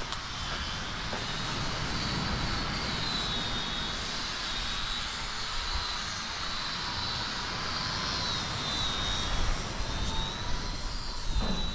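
Wind buffeting the microphone in uneven low gusts, with a thin, steady high whine that wavers slightly in pitch throughout.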